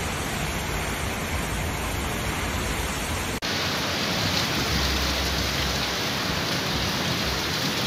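Heavy rainstorm downpour: a steady hiss of rain falling hard. It changes abruptly about three and a half seconds in, where one recording cuts to another with more low rumble.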